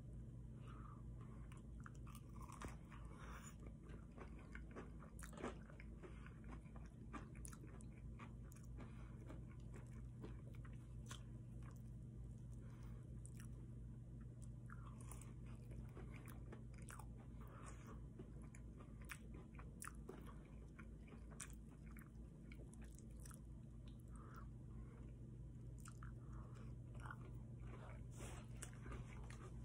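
Close-up biting and chewing of crispy breaded fried chicken tenders with mashed potatoes: wet mouth sounds broken by many short crunching clicks, over a steady low hum.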